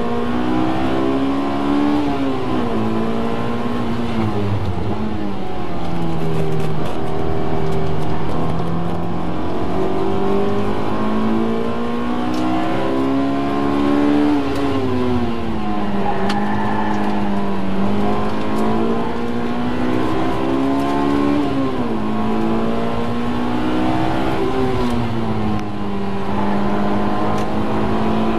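Honda S2000's four-cylinder engine under hard acceleration on track, heard from inside the cabin. It runs at high revs near full throttle, and its pitch climbs and drops back several times.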